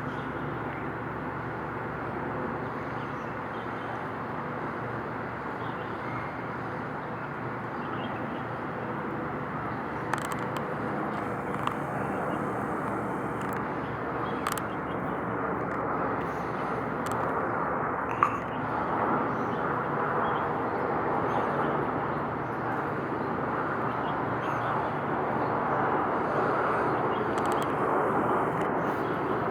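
Steady outdoor background hum and rumble with a faint low drone, growing slightly louder, broken by a few short sharp clicks.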